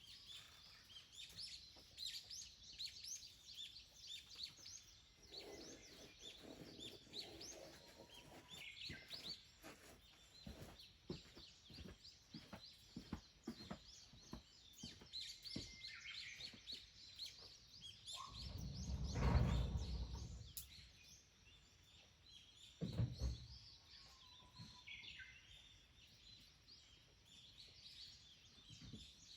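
Wild birds chirping and calling, many short high chirps throughout. A little past halfway a low rumbling swell lasting about two seconds is the loudest sound, and a single knock follows a few seconds later.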